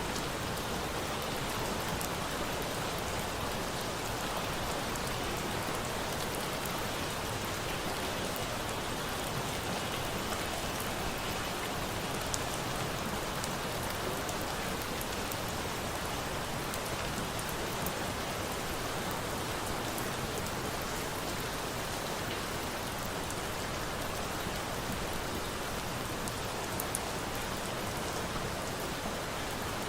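Steady rain pattering on a surface, with a few faint sharp crackles of a wood fire scattered through it.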